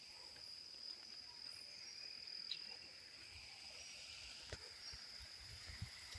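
Insects trilling steadily in one high, unbroken tone, with a sharp click about two-thirds through and a few soft low knocks near the end.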